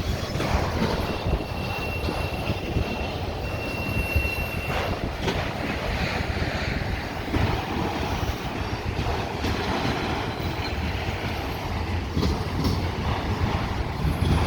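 Freight train cars rolling past on the rails with a steady rumble, and a thin high wheel squeal twice in the first few seconds.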